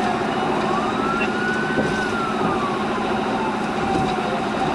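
Police siren in a slow wail, climbing and falling once over about four seconds and starting to climb again near the end, over steady road and engine noise during a pursuit.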